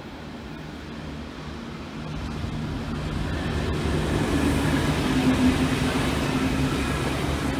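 V/Line diesel passenger train approaching and passing close by. Its engine drone and wheel noise build up over the first few seconds and then hold loud, with a steady low hum.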